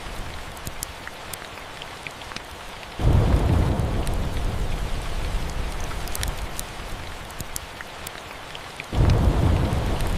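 Steady rain with two rolls of thunder, one about three seconds in and one near the end, each starting suddenly and rumbling on for several seconds. Sharp crackles of a wood fire throughout.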